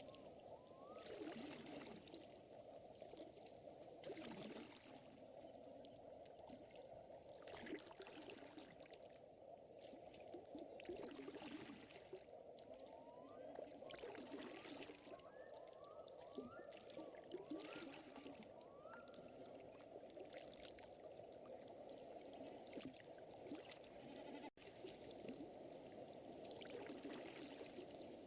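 Faint lakeside nature ambience: water trickling and lapping in a steady wash that swells every few seconds, with short rising chirps in quick little series.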